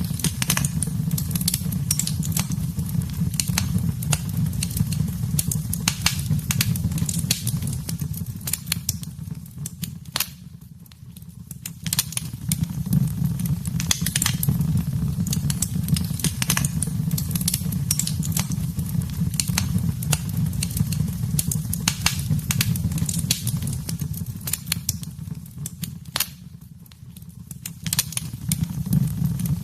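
Wood fire burning in a fireplace: dense, irregular crackles and pops over a low, steady rumble of flame. The fire dips briefly quieter twice, about a third of the way in and again near the end.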